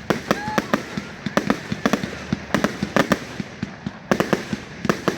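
Fireworks display, shells bursting in a rapid, irregular run of sharp bangs and cracks, several a second.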